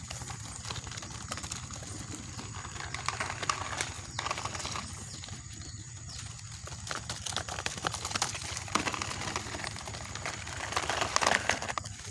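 Toy truck loaded with wood rattling and clattering over rough ground: an irregular run of small hard clicks and knocks.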